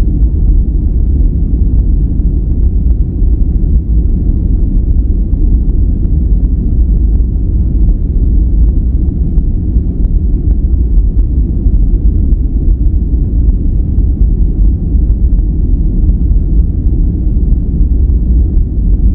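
Steady, loud noise for sleep and relaxation, deep and rumbling, with most of its weight in the low end and little hiss above. It is closer to brown noise than to flat white noise.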